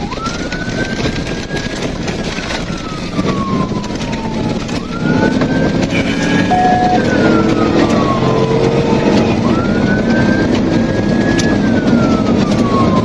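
Police car siren in wail mode, sweeping up and slowly back down about three times, over high-speed engine and road noise that gets louder about halfway through.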